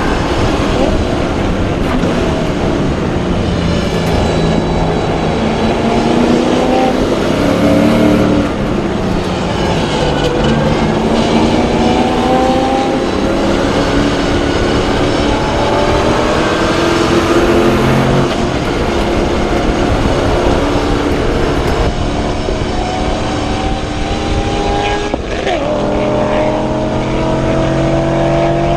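LS1 V8 of a BMW E30 race car at full throttle on track, its pitch climbing through each gear and dropping back at every shift, several times over.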